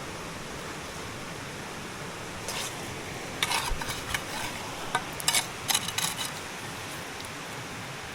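Steady rush of river water, with a quick run of sharp clacks from hard objects knocking together in the middle.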